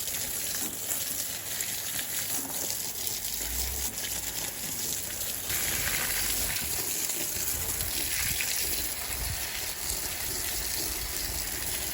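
Water gushing steadily from a watering stream onto tomato plants and soil, a hiss that gets a little stronger about halfway through.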